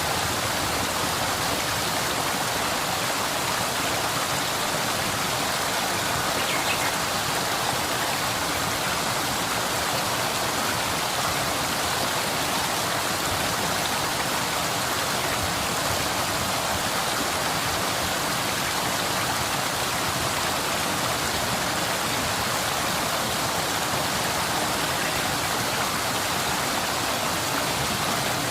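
Waterfall and stream water rushing, a steady, unbroken wash of sound with no change in level.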